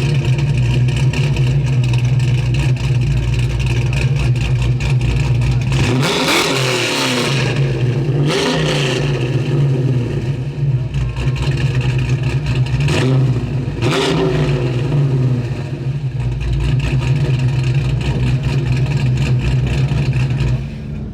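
A car engine running steadily, blipped in a few brief revs through the middle.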